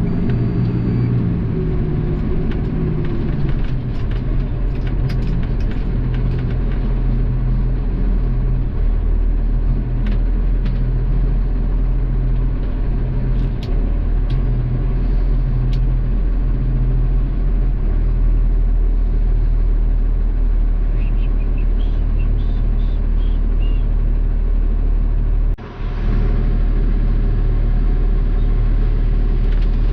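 Garbage truck's diesel engine running with a steady low drone, with scattered light clicks and knocks and a brief dropout about 26 seconds in.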